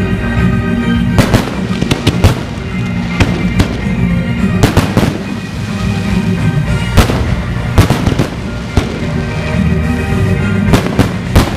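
Fireworks going off in many sharp bangs at irregular intervals, a dozen or so, over loud music that plays throughout.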